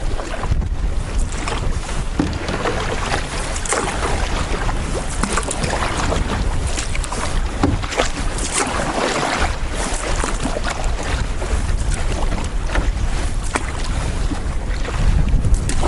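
Strong wind buffeting the microphone with a steady low rumble, over water splashing and lapping around a canoe being paddled into the wind.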